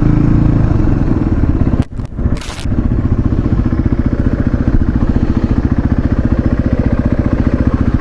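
Motorcycle engine running under way, its revs falling near the start. About two seconds in the engine note briefly drops away and then settles into a steady run.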